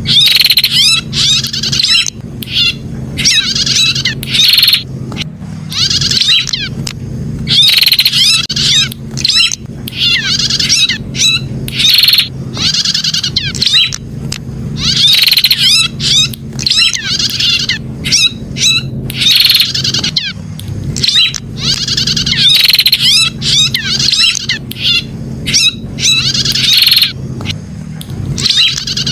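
Prenjak (prinia) calling in rapid, repeated bursts of high chirping phrases with short gaps between them, played as a lure call for trapping birds. A steady low hum runs underneath.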